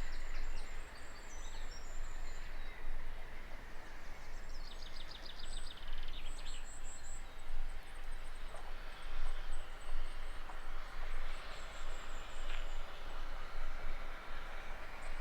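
Outdoor ambience of a steady rumbling noise with small birds chirping high and thin, including a fast trill about five seconds in.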